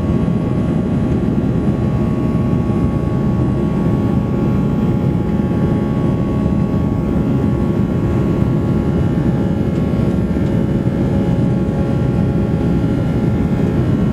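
Airbus A340-300 jet engines and airflow heard from inside the passenger cabin: a steady roar with a few faint steady whining tones above it.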